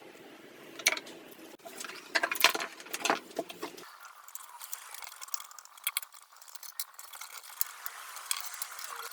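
Scattered clicks, taps and light rattles of small metal parts and tools being handled, thickest in the first few seconds. A low background rumble cuts off suddenly about four seconds in.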